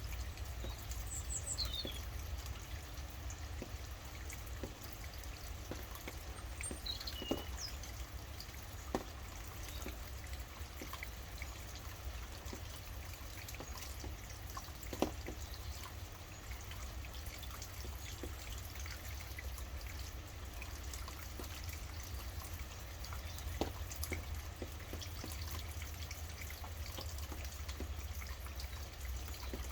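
Steady rain falling, with scattered louder drips, and a few brief high bird chirps that fall in pitch near the start and again about seven seconds in.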